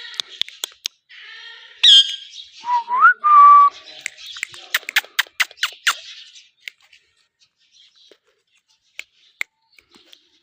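Pet Indian ringneck parakeet calling and whistling: a harsh call about two seconds in, then a rising whistle that levels off into a held note, followed by a quick run of sharp clicks. After that it is mostly quiet, with a few single clicks.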